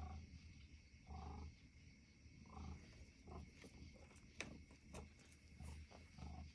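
Domestic cat purring softly in slow pulses about once a second. A single sharp click about four and a half seconds in.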